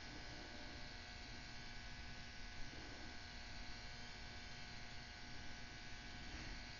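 Temperature-controlled heat gun running steadily at 150 °C, a faint, even hum and hiss from its blower.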